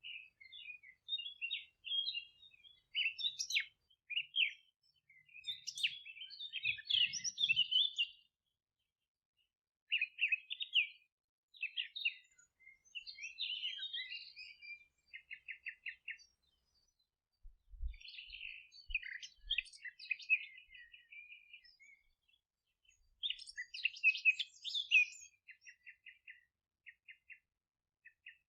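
Songbirds singing in a run of short phrases broken by brief pauses, several phrases ending in quick trills of evenly repeated notes.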